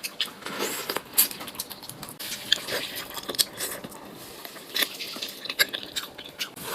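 A series of irregular light clicks and taps.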